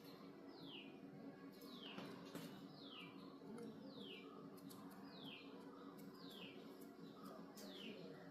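A bird calling faintly: a short high chirp falling in pitch, repeated about once a second, with a few light clicks and a low steady hum underneath.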